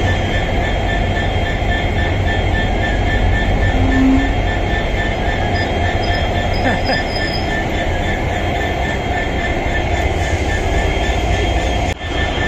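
Passenger express train rolling into the station: a steady low rumble of the coaches running over the rails, with a thin high-pitched squeal held throughout.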